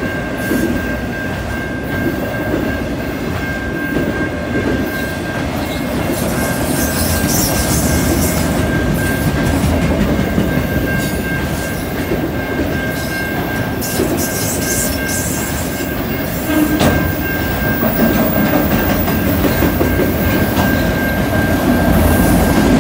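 Freight train of autorack cars rolling past: steady rumble of wheels on rail with clickety-clack over the rail joints, and a thin, steady high-pitched tone held over it. The rumble grows a little louder near the end.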